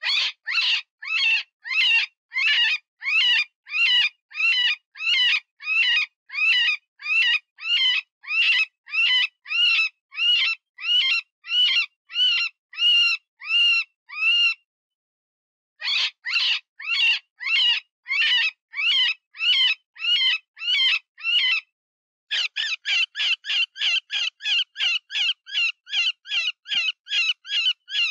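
Cottontail rabbit distress predator call, imitating a wounded rabbit: high, wavering squeals repeated about one and a half times a second. The squeals break off twice, and after the second break they come faster, about three or four a second.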